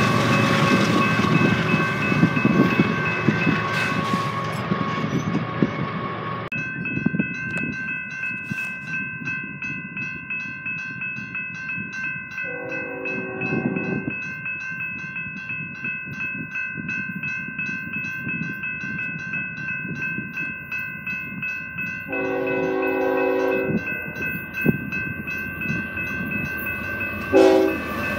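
A freight train rumbles past over a railroad crossing with its warning bell ringing. Then a Union Pacific freight approaches, its lead GE ES44AH locomotive sounding its horn in two long blasts about ten seconds apart and a short one near the end, against a steady bell ringing.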